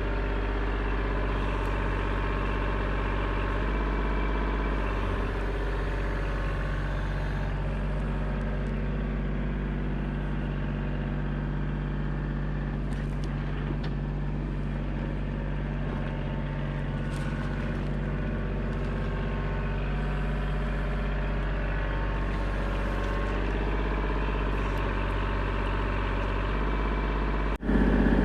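Engine of a digging machine running steadily at a constant speed, with a sudden brief break near the end.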